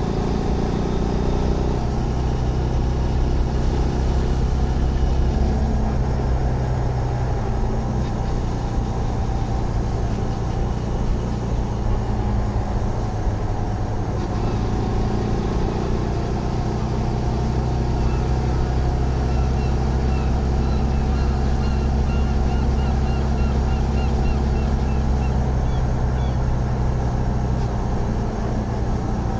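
Zontes GK 125's single-cylinder 125cc engine running steadily while the motorcycle is ridden. Its note shifts in pitch in the first few seconds, then holds even.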